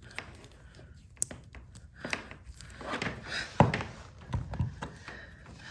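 Irregular clicks and knocks of a plastic plug and a two-prong-to-three-prong outlet adapter being handled and pushed together, with the loudest knock about three and a half seconds in.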